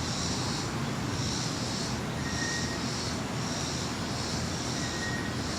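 Steady, distant rumble of a jet airliner around Reagan National Airport. Over it, a high-pitched buzz pulses about once a second.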